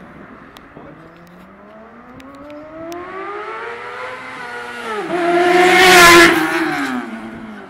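Superbike engine accelerating as it approaches, its pitch climbing, dropping once as it shifts up, then loudest as it goes by about six seconds in and fading away.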